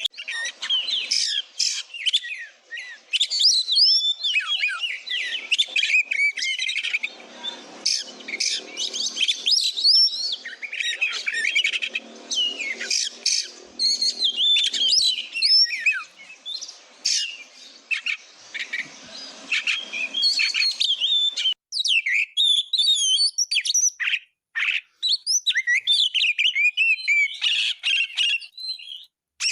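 Oriental magpie-robin (kacer) singing continuously: a rapid, varied run of high whistles and chirps. It is a full, mimicry-filled song of the kind used as a master recording to train other songbirds.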